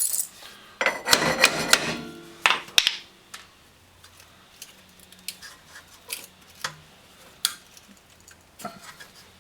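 Metal hand tools clattering and clicking on a car's rear brake caliper as its bottom bolt is loosened: a dense burst of ringing metallic clatter about a second in, then scattered single clicks and knocks.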